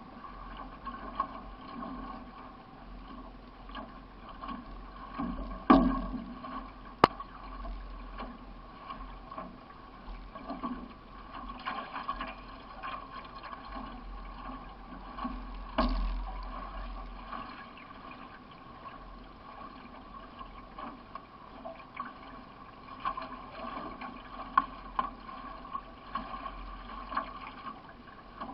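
Water sloshing and splashing around a solo racing canoe under way, with frequent small irregular knocks. Two sharper knocks about six and seven seconds in are the loudest sounds.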